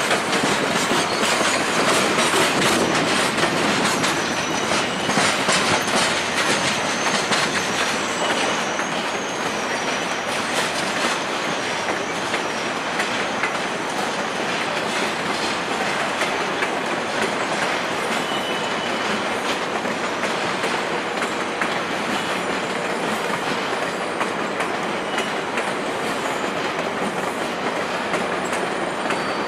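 VIA Rail HEP passenger cars rolling over the station tracks and switches, wheels clicking steadily over the rail joints, with a few faint high wheel squeals on the curves. The sound eases a little as the train pulls away.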